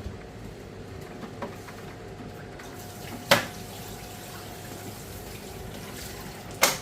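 Steady hiss with a faint steady hum, broken by two sharp clicks about three seconds apart, the second near the end, as hard parts are handled while a boiler circuit board is being fitted.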